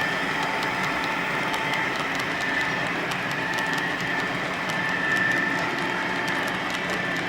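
HO scale model train running on the track: a steady mechanical whir with a faint steady whine and light, scattered ticks.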